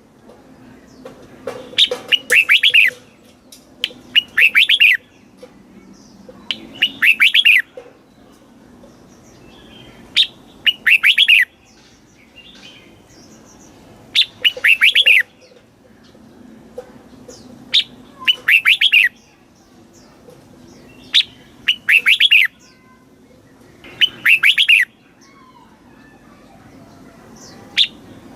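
Red-whiskered bulbul singing: about eight short, bright phrases of quick notes, each about a second long, repeated every two to four seconds with quiet gaps between.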